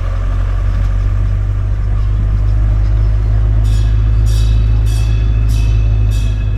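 Tourist road train's engine running with a steady low drone. About three and a half seconds in, music with a regular high beat, about one and a half beats a second, starts over it.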